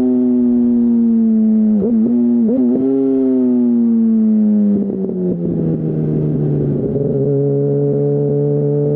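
Yamaha R1 (2008) inline-four engine through a Termignoni full exhaust, heard from the rider's seat. The engine note slowly drops for about five seconds, with two quick dips and recoveries near two seconds in. About five seconds in it changes gear to a lower note that creeps slowly upward.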